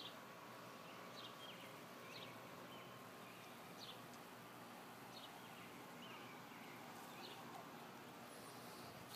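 Near silence outdoors: a faint steady hiss, with small birds giving short, high chirps about once a second.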